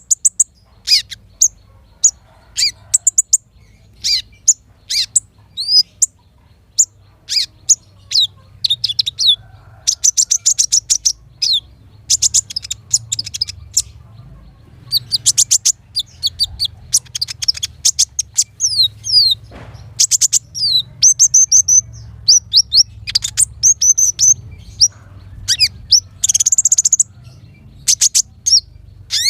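Small songbirds singing in high, sharp chirps and fast rattling trills, phrase after phrase with short gaps, over a faint low hum.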